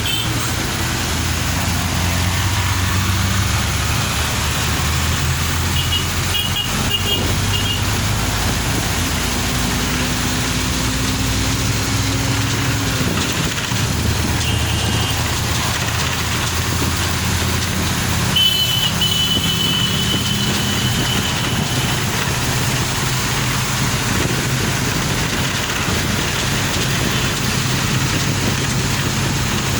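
A car driving through traffic on a wet road: steady engine hum and road noise, with vehicle horns beeping three times, the last for about two seconds.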